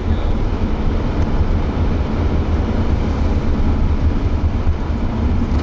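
A car driving: steady low rumble of road and engine noise with a faint steady hum.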